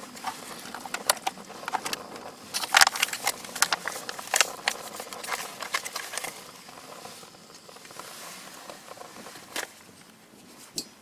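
Crinkling and crackling of a foil dehydrated-meal pouch being handled close by, irregular and dense for about six seconds, then thinning to a couple of single clicks over a faint hiss.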